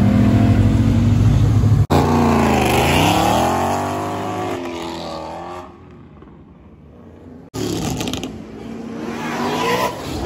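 Car engines accelerating hard. A loud engine note cuts off suddenly about two seconds in. Then a car revs, its pitch dropping and climbing as it pulls away and fades, and after a quieter stretch another cut brings in a second car revving up and passing close.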